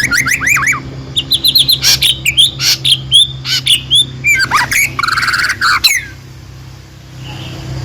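Songbird singing a fast, varied song of whistled chirps, slurred notes and short trills, which stops about six seconds in.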